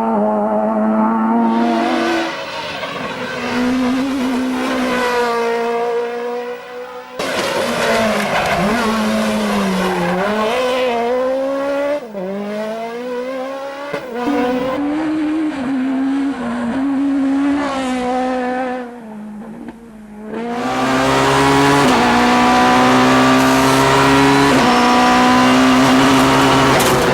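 Four-cylinder rally cars at full throttle on a stage: high-revving engines climbing in pitch through the gears, dropping back on lifts and shifts, with some tire squeal. Several passes are cut together, so the sound changes abruptly a few times, and the last stretch is steady and loud.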